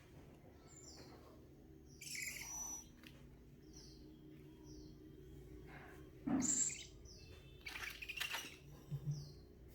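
Baby owl calling: short, falling high chirps about once a second, broken by a few longer hissing calls, the loudest about six seconds in.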